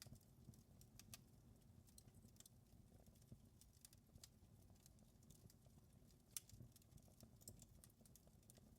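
Faint wood fire crackling, with irregular small pops and clicks over a low steady rumble of the flames; the sharpest pop comes about six seconds in.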